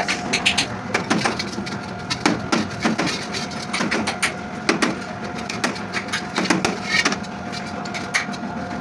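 Irregular clicks and knocks of tools working on metal car parts, some in quick clusters, over a steady high-pitched hum.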